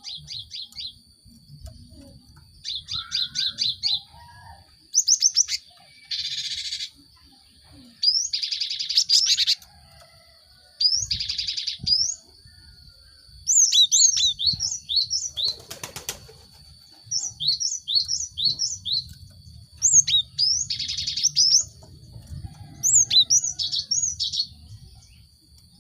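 Cinereous tit (gelatik batu) singing and calling. Short bursts of high notes come every second or two, some as quick runs of rising chirps and some as harsh buzzy scolds.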